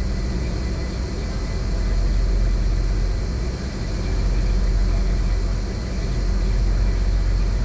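Steady low engine rumble of a car ferry, with an even rushing noise over it.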